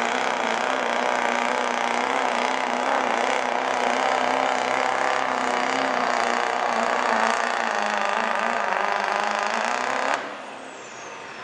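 Diesel pull truck's engine running hard at high revs under load as it drags the sled, its pitch sagging slightly about eight seconds in. About ten seconds in the throttle cuts off suddenly, the engine sound drops away and a high whine falls in pitch.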